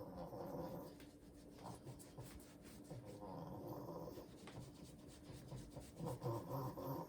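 An old pug breathing noisily, three drawn-out, rasping breaths a few seconds apart.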